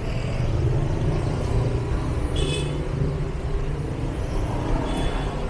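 Street traffic: motor vehicles running and passing, with a steady low engine rumble. A brief high-pitched sound cuts in about two and a half seconds in, and a fainter one near the end.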